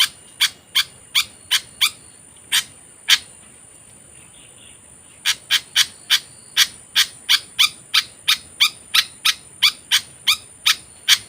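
A bird calling in a fast series of short, sharp notes, about three a second, with a pause of about two seconds partway through before the series picks up again. A steady high-pitched whine runs underneath.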